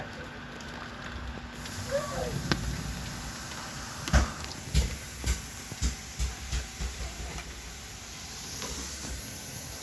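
Steady hiss of rain, with a run of about ten low, heavy thuds from about four seconds in.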